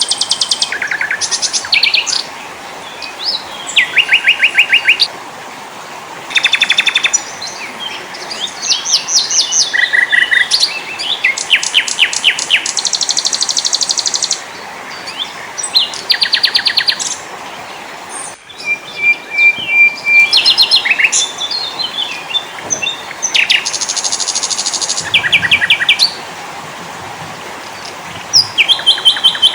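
Several small songbirds singing one after another: fast trills, rapid repeated chirps and short whistled notes, some overlapping, over a steady background hiss. There is a brief break about two-thirds of the way through.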